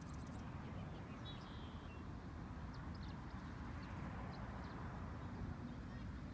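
Outdoor ambience: a steady low rumble with faint, brief bird chirps scattered through it.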